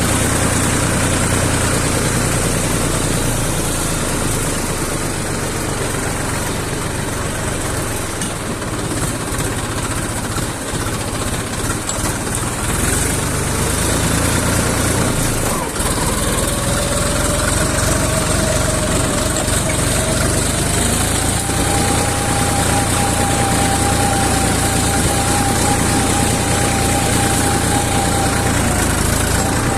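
Tractor diesel engine running steadily. About halfway through its pitch climbs over several seconds and then holds at the higher speed.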